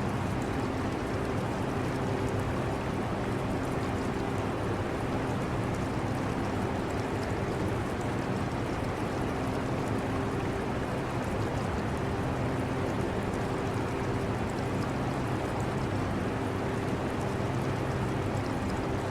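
Portable air conditioner running with a steady hum and rush of air, mixed with the trickle of aquarium water.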